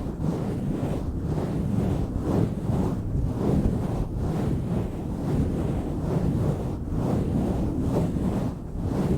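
Hands rubbing and swirling a microphone cover right against the microphone: a loud, muffled rumbling rub that swells and eases in uneven waves.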